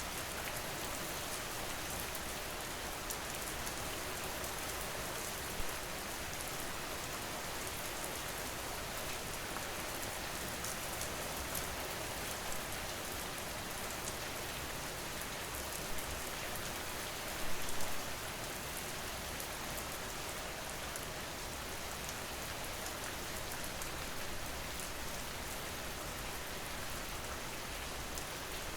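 Steady rain falling and pattering on surfaces. There are a few brief louder drop hits, the largest a short spatter about two-thirds of the way through.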